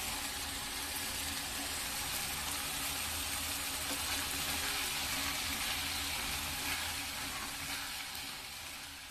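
Chicken and crushed coconut masala sizzling in an aluminium pot as it is stirred with a wooden spatula: a steady hiss that fades near the end.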